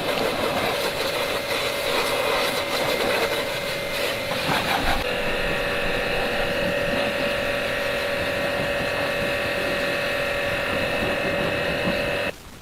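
Restored motorcycle engine running steadily. Its note shifts to a new steady pitch about five seconds in, and the sound cuts off suddenly near the end.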